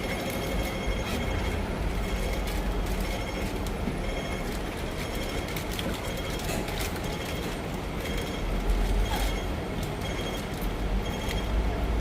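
Hong Kong double-decker tram running along its rails: a steady low rumble with scattered clicks and rattles, swelling a little about nine seconds in.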